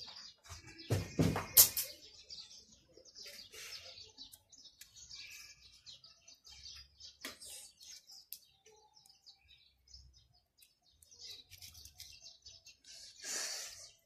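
Small birds chirping on and off, over light sounds of a pencil tracing on a craft-foam sheet and hands shifting the sheets. A louder clatter comes about a second in, and a short rustle near the end.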